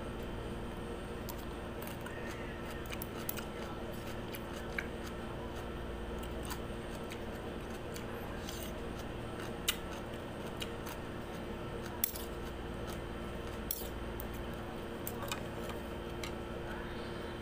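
Crisp crunching of raw cucumber slices being bitten and chewed close to the microphone, in scattered short crunches over a steady low hum.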